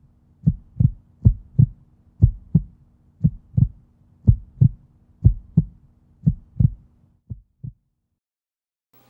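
Heartbeat sound effect: paired lub-dub thumps about once a second over a faint steady hum. Near the end the beats weaken and stop.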